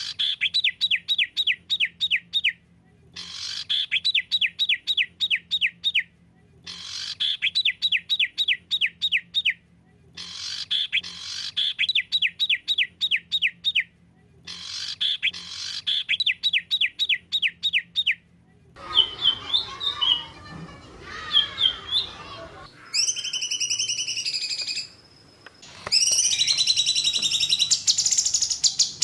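Songbird song: five bursts of rapid down-sweeping whistled notes, about a dozen notes per burst, repeated every few seconds. After that come varied chattering calls, a held high note and a shrill rapid trill near the end, over a faint steady low hum.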